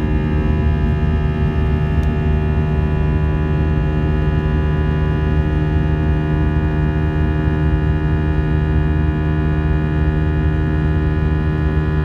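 Airbus A320 jet engines running, a steady loud drone made of a low hum and many steady tones over a noisy rush, unchanging throughout.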